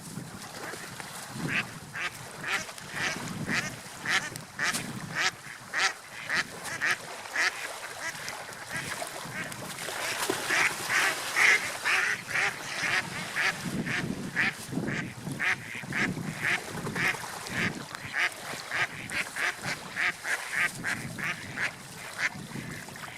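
Seagulls calling in a long run of short, sharp cries, about two a second and busiest around the middle, over a low rush of wind and surf.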